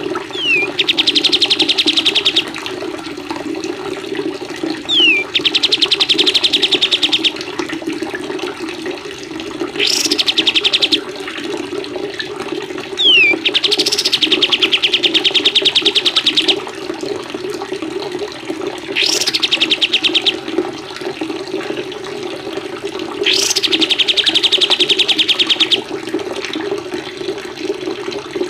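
Small songbird repeating one phrase, a quick falling or rising whistle run into a fast, even trill about two seconds long, about every four to five seconds. Steady running water plays beneath it.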